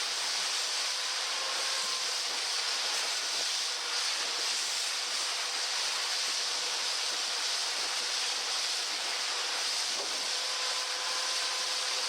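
Steady rushing hiss of wind and water, even throughout, with a faint thin hum underneath.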